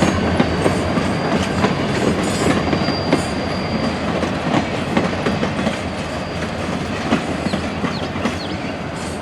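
Cars of a caboose excursion train rolling past: steady wheel rumble with wheels clicking over rail joints and a faint high squeal at times, slowly fading as the train moves off.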